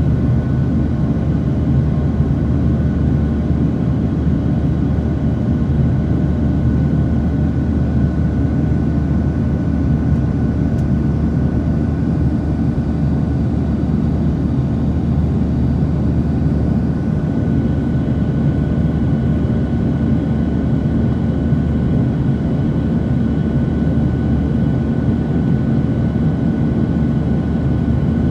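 Boeing 737-700 airliner heard from the cabin: the steady rumble of its CFM56-7B turbofan engines and airflow, with a steady high tone over it. The deepest part of the rumble eases a little about two-thirds of the way through.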